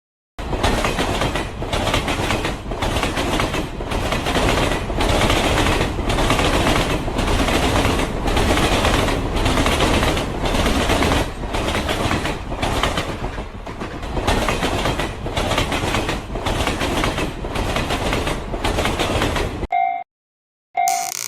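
A train passing: loud, dense clickety-clack of wheels running over rail joints, pulsing in a steady rhythm for almost twenty seconds before it cuts off abruptly. Near the end a short electronic tone sounds twice.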